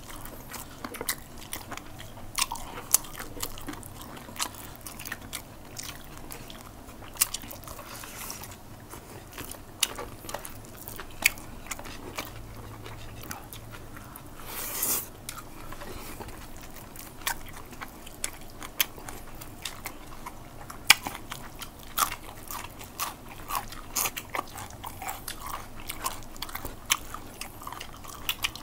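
Close-miked eating sounds from two people eating braised chicken adobo and rice by hand: wet chewing and biting with many sharp mouth clicks, and one longer noisy sound about halfway through.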